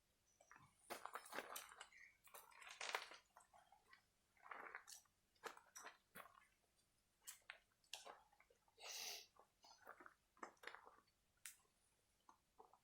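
Faint, irregular crackles, clicks and short rustles, scattered unevenly with no steady rhythm.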